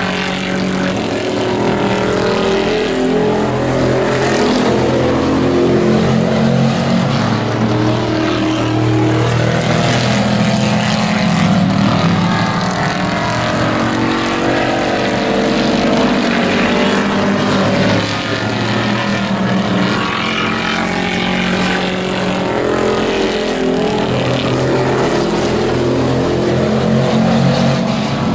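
Several race truck engines running hard in a pack, their pitch rising and falling every few seconds as they accelerate and back off around the oval.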